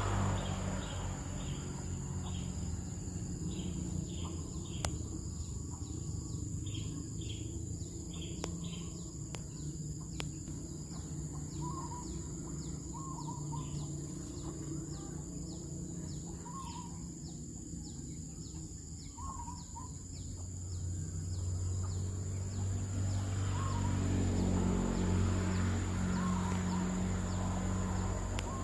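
Zebra doves giving a few short, soft warbling coos spaced a few seconds apart, over rapid high chirping from small birds that fades out about two-thirds of the way in. A steady high whine and a low rumble run underneath, the rumble growing louder near the end.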